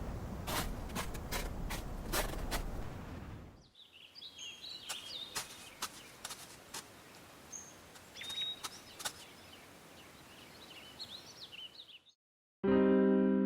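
Outdoor ambience: a low rumbling noise with scattered sharp clicks cuts off after a few seconds to a quieter background of small birds chirping and occasional ticks. Near the end it goes silent, then a piano chord starts.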